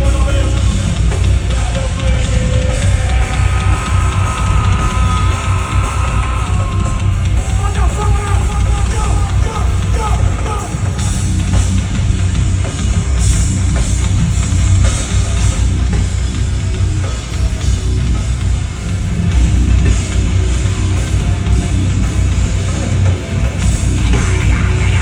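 Heavy metal band playing live and loud, with a pounding drum kit.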